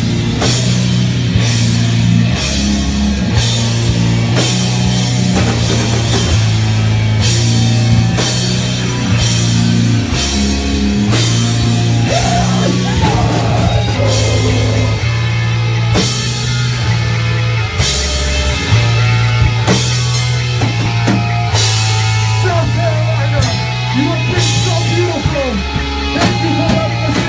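Live heavy rock band playing loud: distorted bass and guitar riffing over a drum kit with steady cymbal crashes.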